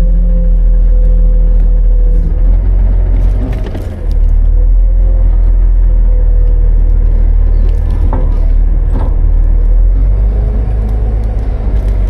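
Autocar-Heil front-load garbage truck's engine running loudly with a steady whine over the rumble, broken by a few sharp knocks and clanks.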